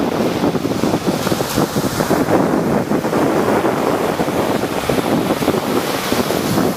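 Sea surf breaking and washing steadily, with wind buffeting the microphone.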